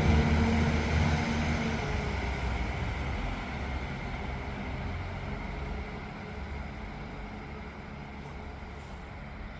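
Class 195 diesel multiple unit's underfloor diesel engines running as the train pulls away, the steady engine sound fading as it moves off into the distance.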